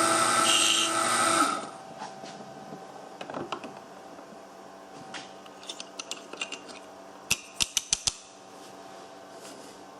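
CNC milling spindle running with a steady whine, then switching off about a second and a half in, its pitch dropping slightly as it stops. After that a few light clicks follow, then a quick run of five sharp clicks about three quarters of the way through.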